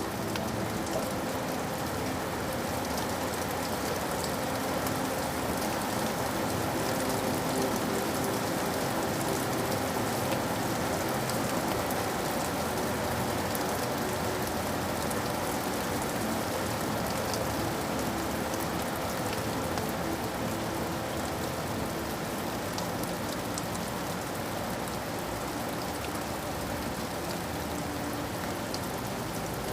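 Steady rain falling, an even hiss dotted with the fine ticks of single drops.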